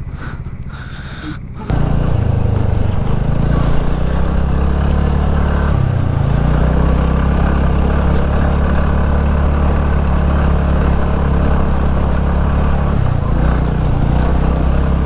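A two-wheeler's single-cylinder engine running steadily under way, cutting in loudly about two seconds in, its note shifting slightly around six and thirteen seconds in.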